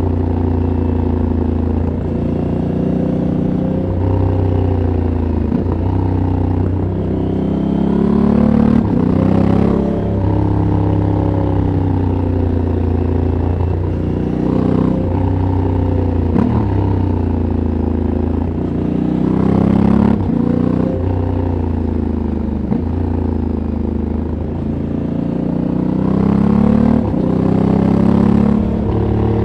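Stock 2022 Honda Africa Twin Adventure Sports' parallel-twin engine and exhaust under way, its pitch repeatedly rising and falling as the throttle is opened and closed through corners. Short breaks in the engine note come every few seconds.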